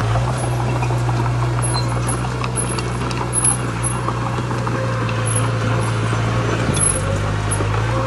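Heavy diesel engine of earthmoving machinery running steadily under load, with a light clatter of metal and stone over the hum.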